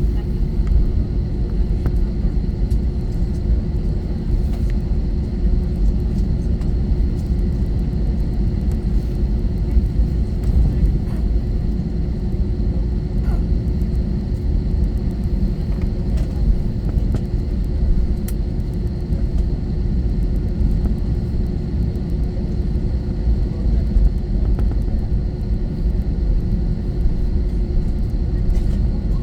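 Steady cabin rumble of an Airbus A321-231 with its IAE V2500 engines running at low, even power, with a constant hum and a few faint clicks.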